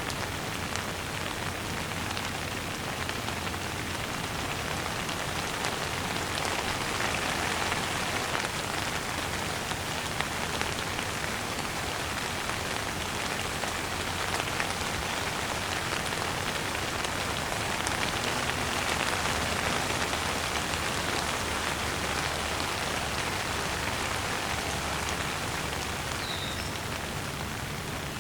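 Steady, gentle rain falling on the ground, a dense even patter with many individual drops ticking through it.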